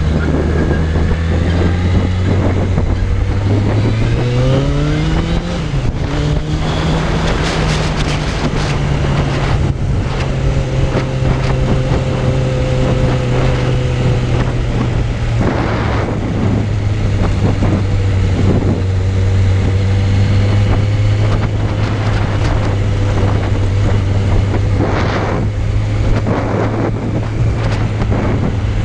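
Suzuki Bandit 600's inline-four engine running under way on a ride. Its pitch climbs about four seconds in, then eases down and holds steady, over wind noise.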